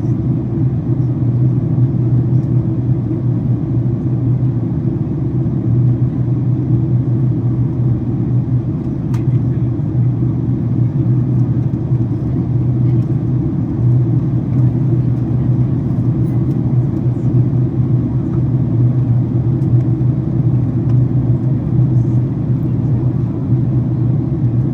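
Steady low rumble inside the cabin of a Boeing 767-400ER airliner during descent: engine and airflow noise.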